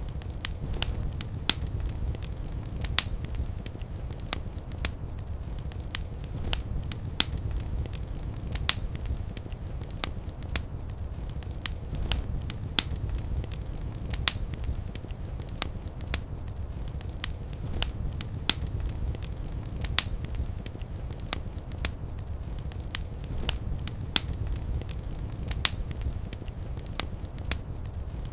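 Wood fire burning in a fireplace: a steady low rumble of flames with sharp, irregular crackles and pops of burning logs.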